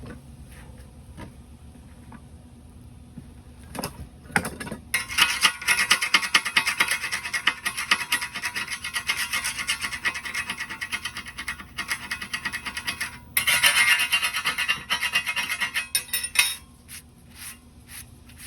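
Electric welding arc crackling in two long runs, the second after a short break, with a few brief spurts before and after.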